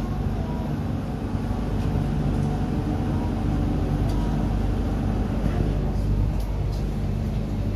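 Inside the car of an MTR Q-Train electric metro train starting to pull away from a station: a steady low rumble with the hum of the traction equipment, its pitch stepping now and then.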